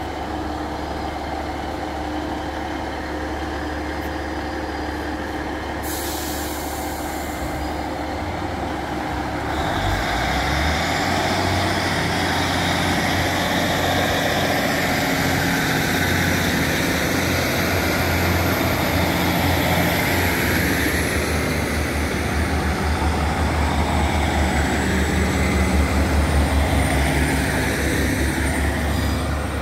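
Passenger train at a station platform: a steady low hum and a short hiss about six seconds in, then from about ten seconds the train runs louder, with a whine and a thin high tone that rises and later falls away.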